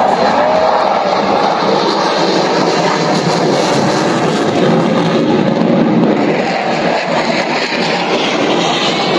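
Jet aircraft engine noise: a loud, steady roar of a fighter jet flying over.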